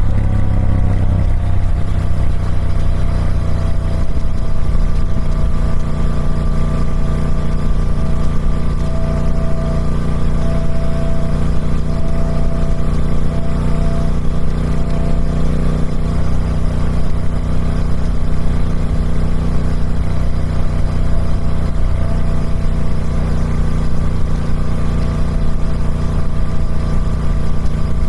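Triumph Speed Twin 1200's 1200cc parallel-twin engine running through its stock exhaust. Its revs drop and settle in the first second, then it runs at a steady engine speed.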